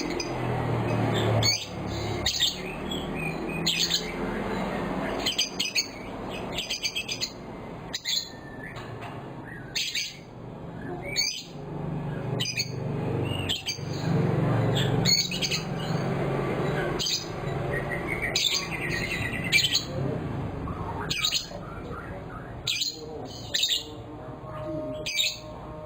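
Young lovebirds chirping and squawking in a continuous string of short, sharp, high calls, over a steady low background noise.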